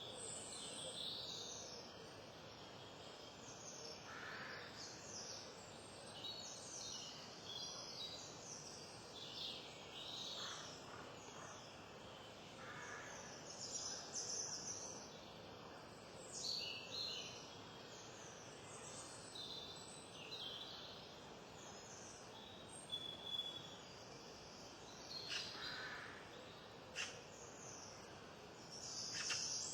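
Wild birds chirping and calling on and off, many short high calls scattered over a steady background hiss, with a few sharper calls near the end.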